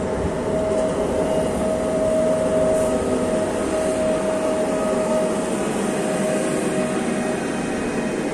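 A train running by: steady rail noise with a held mid-pitched whine over it.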